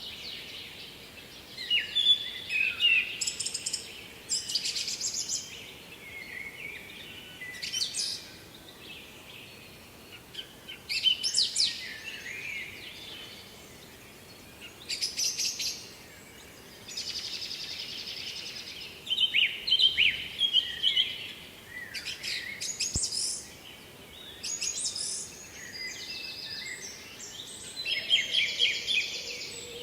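Songbirds singing short, bright, warbling phrases every few seconds, over a faint steady background hiss.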